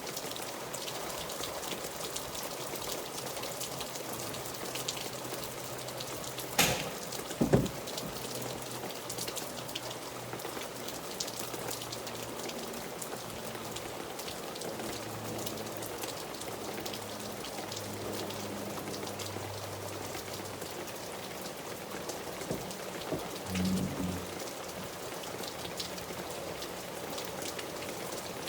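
Steady rain falling, with many small drops ticking on a surface. Two sharp knocks stand out about a quarter of the way in.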